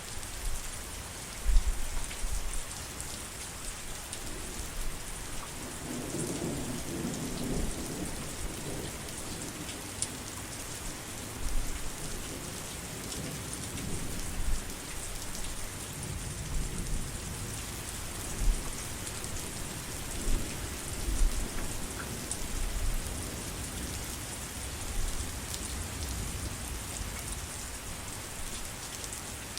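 Steady heavy rain, with low rolling rumbles of thunder coming and going; the broadest rumble swells about a quarter of the way in and lasts a few seconds.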